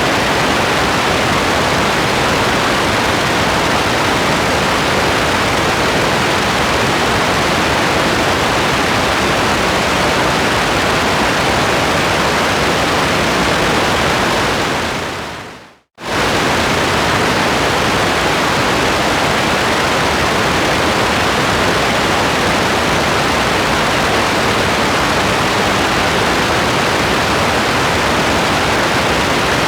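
Steady, even hiss of rain. About fifteen seconds in it fades out over a second or two to a moment of silence, then comes back suddenly at full level.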